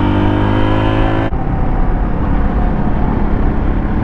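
Suzuki DR200's single-cylinder engine running at high revs with a steady, slightly rising tone. About a second in the tone drops away abruptly, leaving wind rush and a lower engine drone.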